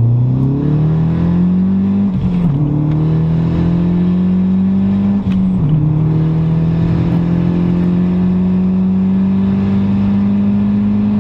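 Turbocharged Nissan Sentra Spec V four-cylinder engine at full throttle, heard from inside the cabin, pulling hard through the gears. The engine note climbs, drops sharply at an upshift about two seconds in and again at a second upshift about five and a half seconds in, then climbs steadily again.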